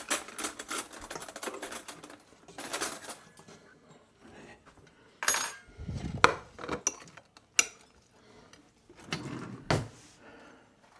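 Cutlery and serving utensils clinking and scraping against plates as food is dished up, in irregular clusters with a few louder clinks.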